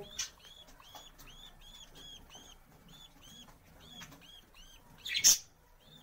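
Small bird chirping over and over, a quick even series of short high rising-and-falling chirps about three a second, with one short, loud harsh burst about five seconds in.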